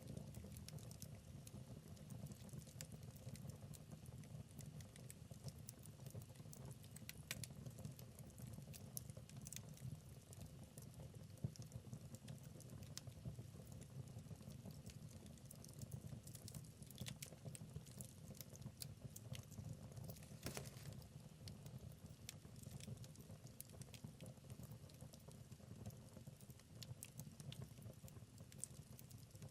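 Wood fire in a fireplace crackling: a steady low rumble of flames with many small irregular pops and snaps, a few of them sharper.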